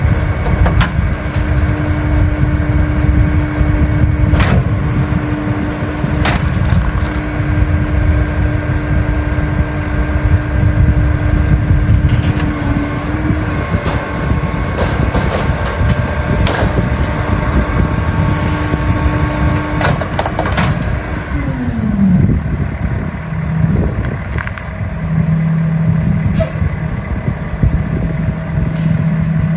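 Rear-loader garbage truck running at raised revs while its packer works, with repeated sharp cracks and knocks of trash breaking and being crushed in the hopper. About two-thirds of the way through, the revs fall away in a dropping pitch, and the engine settles to a lower steady note.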